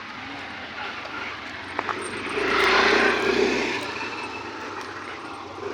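An engine passing by, swelling and fading over about two seconds, loudest near the middle, over a steady background hum.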